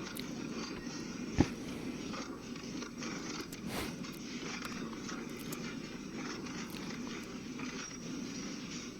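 Industrial shredder grinding and crunching an engine block: a steady crackling, scraping grind, with one sharp knock about a second and a half in.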